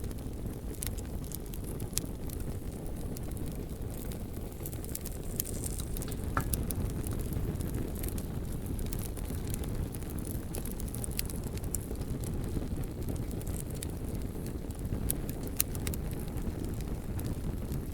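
Bonfire burning with a steady low rumble and frequent sharp crackles and pops from the burning logs.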